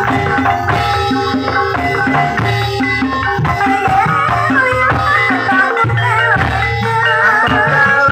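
Javanese ebeg (kuda kepang) accompaniment music: drums and gamelan metallophones playing a steady, busy rhythm, with a wavering melodic line coming in near the end.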